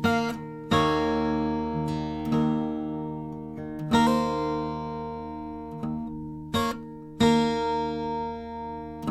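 Background music: acoustic guitar strumming chords that ring out, with fresh strums about every one to three seconds.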